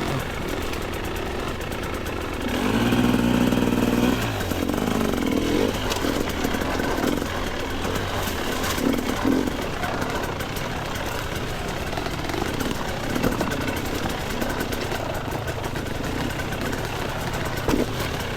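Two-stroke dirt bike engine running at low trail speed, revved up and held for about a second and a half near the start, then blipping unevenly at low revs.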